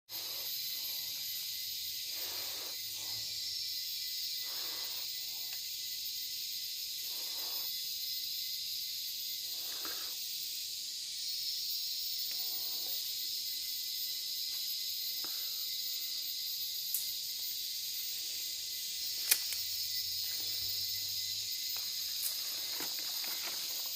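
Steady, dense, high-pitched chorus of forest insects, crickets and cicadas, with faint soft rustles underneath and a few sharp clicks, the loudest a little past the three-quarter mark.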